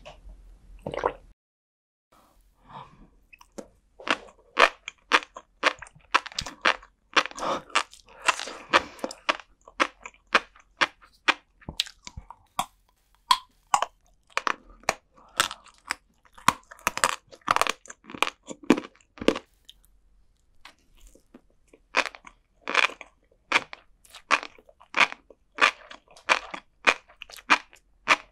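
Close-miked chewing of flying fish roe and sea grapes, a dense run of crisp little pops and crunches as the beads burst, with a short pause about twenty seconds in.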